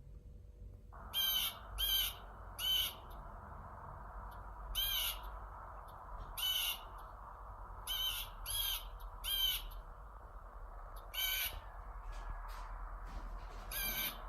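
Blue jay recording: about ten short, harsh jay calls at irregular intervals over a steady background hiss of a field recording that starts about a second in.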